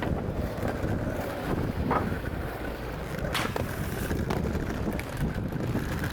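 Inline skate wheels rolling over street pavement, a steady low rumble with wind buffeting the microphone and a couple of sharp clicks, about two and three and a half seconds in.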